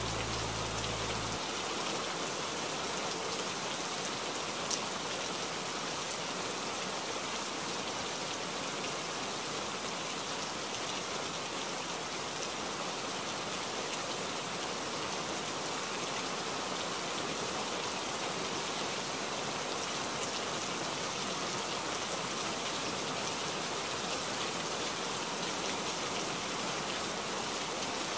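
Steady rain, an even hiss of falling drops. The last low held notes of music cut off about a second in.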